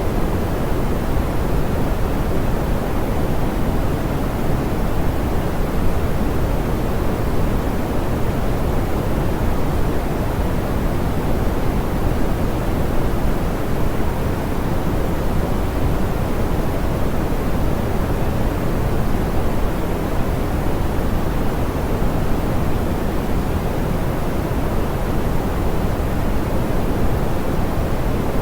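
Steady, soft pink noise: an even hiss with most of its weight in the lows and mids, falling away in the highs, with no change in level.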